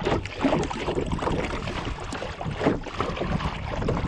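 Wind buffeting the microphone as a steady low rumble, with water splashing and lapping around a kayak in irregular short bursts.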